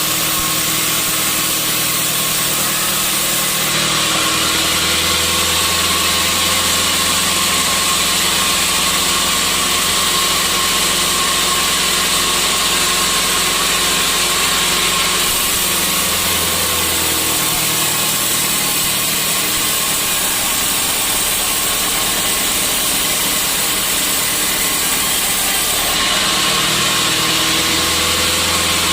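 Sawmill saw running steadily, sawing a teak stump. The sound grows brighter and hissier about four seconds in, eases back about fifteen seconds in, and brightens again near the end.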